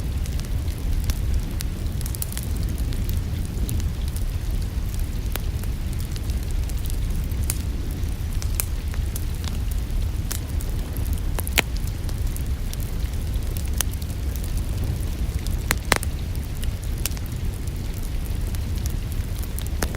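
Wood fire in a fireplace crackling, with scattered sharp pops over a steady low rumble; two louder pops come about twelve and sixteen seconds in.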